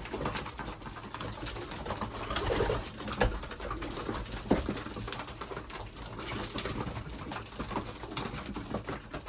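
Racing pigeons in a loft, cooing softly now and then amid scattered clicks and scrapes of the birds moving about.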